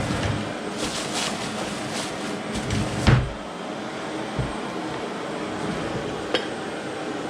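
A few knocks and one louder thump about three seconds in, over a steady noise.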